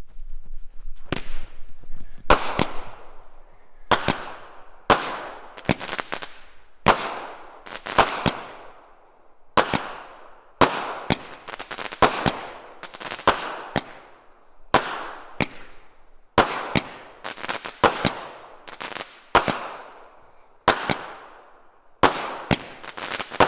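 A 16-shot consumer firework cake firing in sequence, about one shot a second: sharp reports, often in close pairs, each trailing off in a fading tail.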